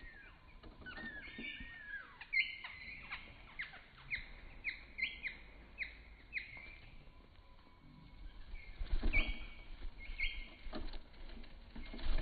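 A small bird chirping in quick series of short, sharp notes, each a fast downward sweep, with some rustling and low thumps in the last few seconds.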